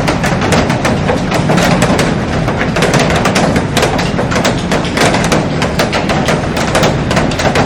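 Heavy rain drumming on a glass roof: a dense, irregular patter of large drops striking the glass over a steady rain hiss.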